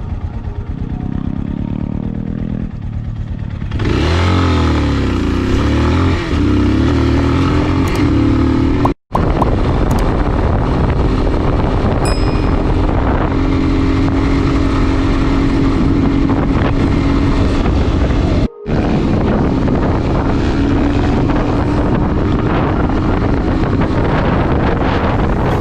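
Dirt bike engine running while riding, revving up and down and then holding a steadier pitch. The sound cuts out briefly twice.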